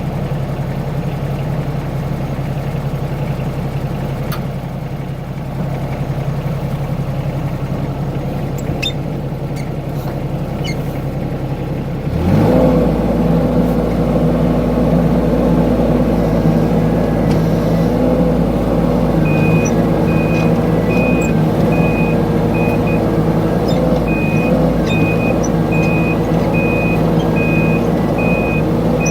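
Mini excavator's diesel engine running steadily; about twelve seconds in it gets louder and deeper as it comes under load. Later a high-pitched travel alarm beeps about twice a second, pausing briefly, as the machine tracks.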